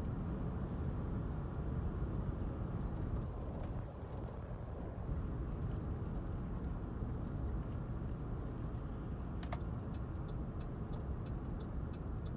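Road noise inside a moving car, a steady low rumble. Near the end comes a run of short high ticks, about two a second.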